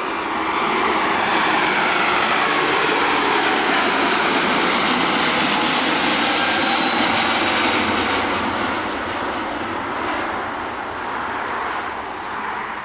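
Airbus A350 jet engines passing close by: a loud jet roar with a whine falling in pitch as it goes past, fading over the last few seconds and then cutting off abruptly.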